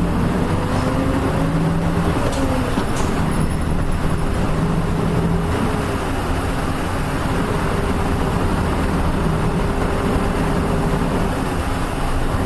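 Inside a Nissan Diesel UA-series city bus on the move: its diesel engine running with road and tyre noise. The engine note climbs over the first two seconds and drops back, then runs steadily.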